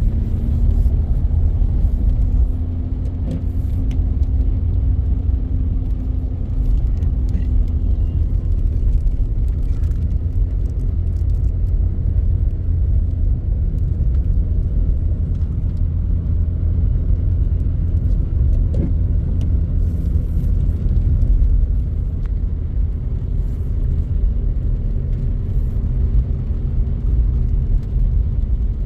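Car engine running steadily, a heavy low rumble with a steady hum on top.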